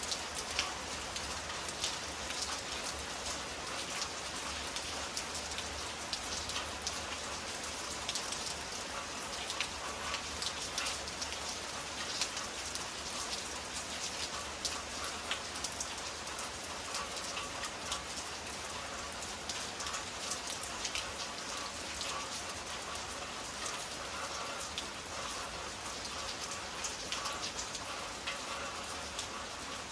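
Steady rain from a summer storm: a dense patter of drops with many small sharp hits, keeping up without a break.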